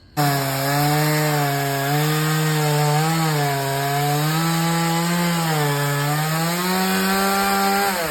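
Two-stroke chainsaw cutting wood at high revs, its engine pitch dipping and recovering as the chain bites. It comes in suddenly, rises near the end as the cut frees, and starts to wind down as the throttle is released.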